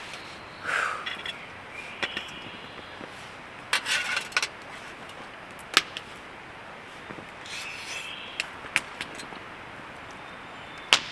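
Eating utensils working on food: a few short scraping strokes, the longest about four seconds in, and several sharp clicks of metal on a plate or board as the food is cut and picked up.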